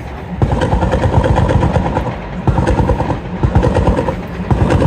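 A modified car's engine revving hard as the car accelerates away, in three surges with short dips between them, each surge a rapid, rough firing.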